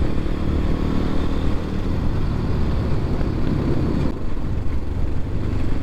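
X-Pro Templar X 250 dirt bike's single-cylinder four-stroke engine running steadily under way, heard from the rider's own bike.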